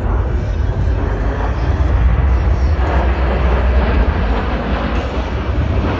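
Jet engines of Patrouille de France Alpha Jet trainers in a display pass: a steady, loud jet rumble, heaviest in the deep lows, with a broad hiss above. It swells slightly midway.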